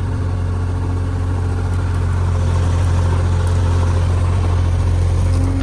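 JCB 3DX Extra backhoe loader's diesel engine running steadily with a deep, even hum.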